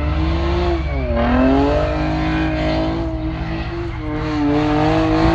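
A car spinning at full throttle: the engine revs hard with the tyres squealing. The pitch dips about a second in, then holds steady.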